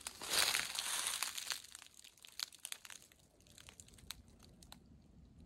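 Footsteps crunching through dry leaf litter and brush, dense for about the first two seconds, then thinning to scattered crackles and snaps.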